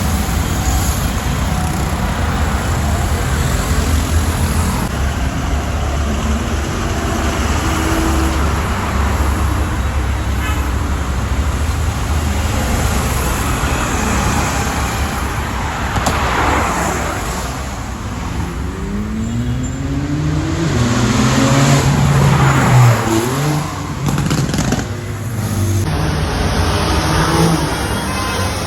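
Porsche sports cars driving on a road in traffic, a steady engine and tyre rumble. About two-thirds of the way through, an engine revs up with rising pitch, then eases off.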